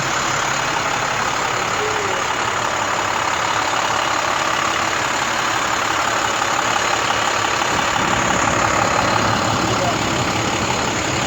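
A work truck's engine running steadily at idle.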